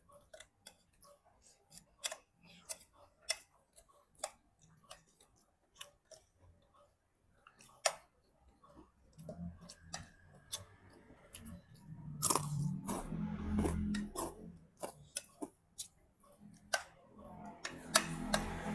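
Kitchen clatter: scattered sharp clicks and knocks of cooking utensils, with a low rumbling hum joining about nine seconds in and again near the end.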